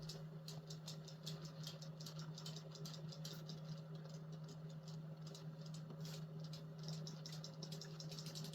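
Battery-powered swimming fish toys in a bucket of water, their flapping tails making a quick, light ticking patter, several ticks a second, over a steady low hum.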